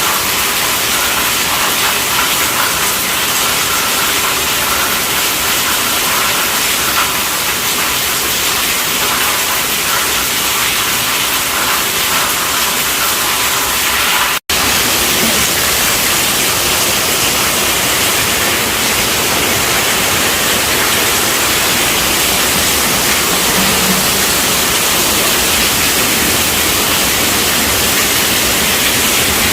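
Heavy rain pattering steadily on a tent roof, a dense even hiss, broken by a split-second gap about halfway through.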